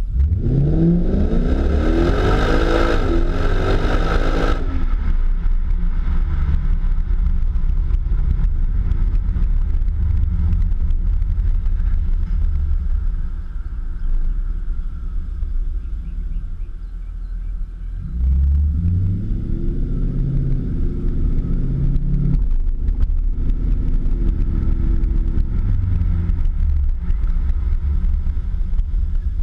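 Infiniti FX50S's 5.0-litre V8 through an ARK custom exhaust, accelerating hard at the start with the note rising steeply and then dropping off. A steady low drone follows, with a second, milder rise in pitch about eighteen seconds in.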